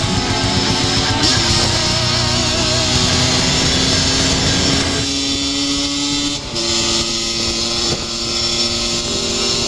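Two-stroke motorcycle engine running under background music with long held notes. About halfway through, the engine noise drops out, leaving only the music.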